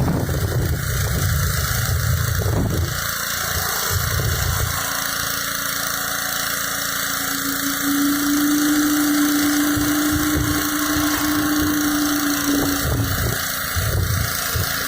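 Gas-engine pressure washer running steadily while its high-pressure water jet hisses against concrete. A steady whine joins for about five seconds in the middle.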